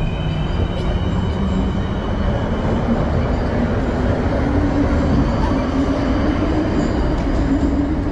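Train moving through an underground station: a loud, steady rumble echoing in the platform hall, with a low hum that rises slightly in pitch from about two seconds in.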